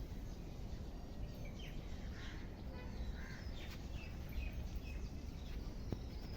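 Outdoor park ambience: a steady low rumble with faint bird calls scattered through the middle.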